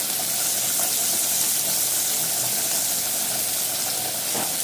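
Sliced onion and garlic frying in hot oil in a frying pan: a steady, even sizzle.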